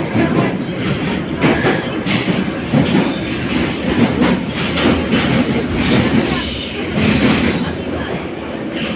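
Inside an 81-717.5 metro car running between stations: steady rumble of the running gear with repeated wheel knocks over rail joints, and a thin high wheel squeal about five to seven seconds in.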